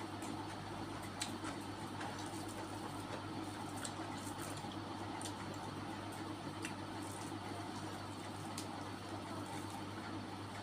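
Close-up eating sounds: chewing and wet mouth sounds with a few sharp clicks, over a steady low hum and hiss.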